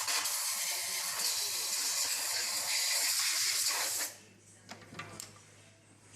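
A loud, steady hiss like a jet of air or spray, which cuts off about four seconds in. A few faint clicks follow.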